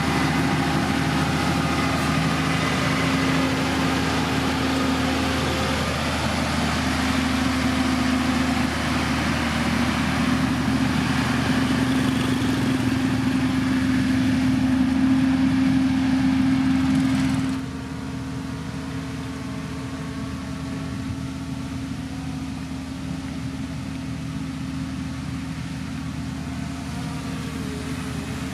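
Diesel engine of heavy road-building machinery (motor grader or road roller) running steadily with a constant drone. About two-thirds of the way through it turns abruptly quieter and duller, then carries on steadily.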